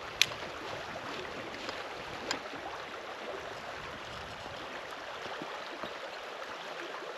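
River water running steadily, with two sharp clicks: one right at the start and another a little over two seconds in.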